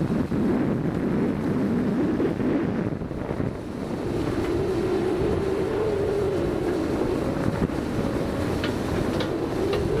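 Komatsu PC200 hydraulic excavator's diesel engine running under load. Its note dips briefly about three seconds in, then rises and holds steady.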